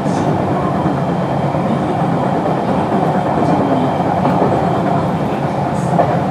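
JR West 221 series electric train running, heard from on board: a steady rumble of wheels on the rails and running gear, with a single brief knock near the end.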